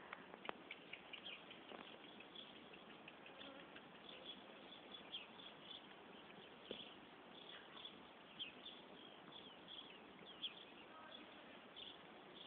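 Near silence with faint, frequent high chirps of small birds, many short notes sliding downward, and an occasional soft click.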